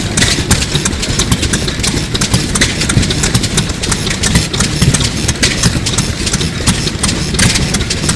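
A Sato 2 hp hot-bulb semi-diesel engine from about 1933 running steadily: a dense low rumble with many sharp ticks and clicks over it.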